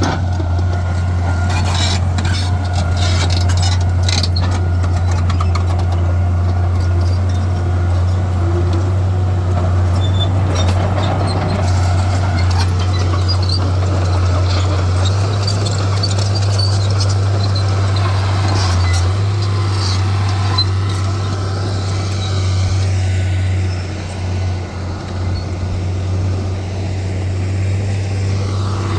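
Heavy diesel engine of earthmoving machinery running steadily with a deep drone, with scattered clanks and knocks in the first few seconds.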